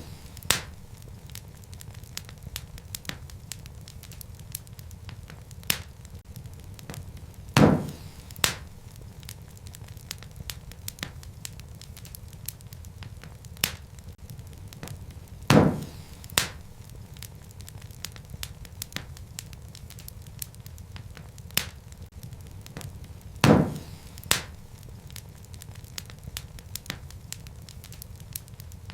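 Wood fire crackling in a fireplace: a low, steady rumble of burning logs with scattered small snaps. About every eight seconds there is a louder pop, followed by a second one just under a second later.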